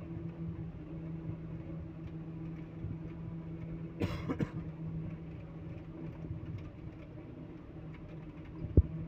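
Heavy machine engine running steadily with an even hum. A short burst of noise comes about four seconds in, and a single sharp knock near the end is the loudest sound.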